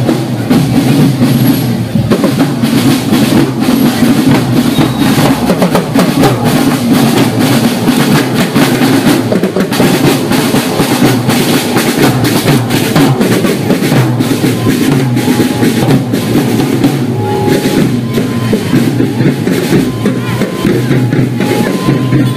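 Marching drum band playing loud and without a break: bass drums and snare drums beating with rolls.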